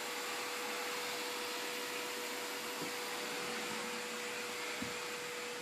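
Vacuum cleaner running steadily, a constant rushing noise with a steady hum, as it is pushed over the floor by its hose and brush attachment. A light knock about five seconds in.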